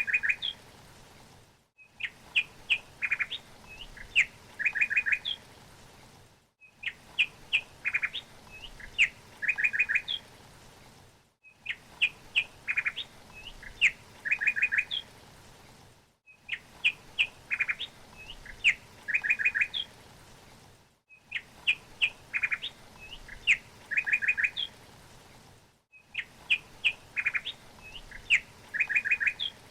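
Songbird chirping: a few sharp high chirps, then a quick run of repeated notes. The same phrase of about five seconds repeats identically over and over, with a brief break between repeats, as a short recording looped.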